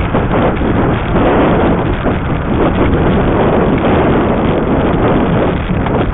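Strong wind buffeting the microphone during a moving e-bike ride: a loud, rumbling rush that swells and dips unevenly, with no steady tone over it.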